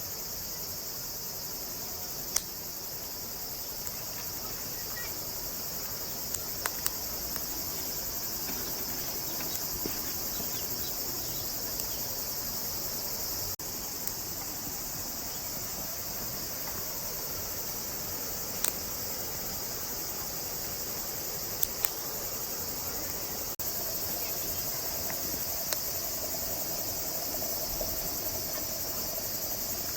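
Steady high-pitched insect chorus, with a few brief sharp clicks or taps scattered through it.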